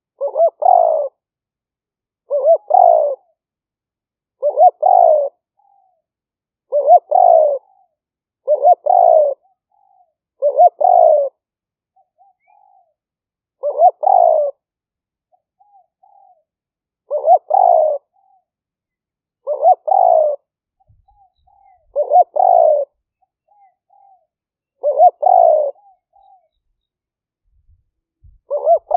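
A decoy spotted dove cooing: a short two-part coo repeated roughly every two seconds, with soft little notes between the calls.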